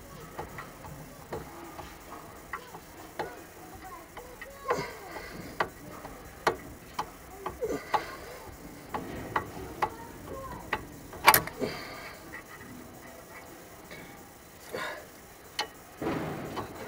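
Irregular metallic clicks and knocks from an adjustable wrench being worked on a seized, rusted front brake caliper guide pin, with one sharp loud click about eleven seconds in.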